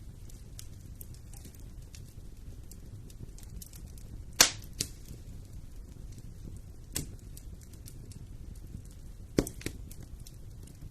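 Fire burning in a fireplace: a steady low rumble with small crackles throughout, and sharp loud pops, the loudest about halfway in, another a little later and a pair near the end.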